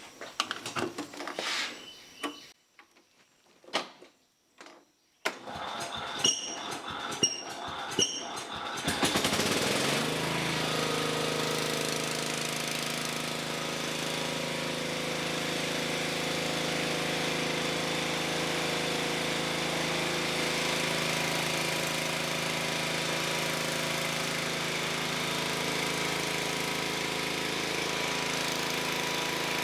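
Clicks and knocks of handling, with three short high chirps, then about nine seconds in the tractor's engine starts and settles into a steady idle.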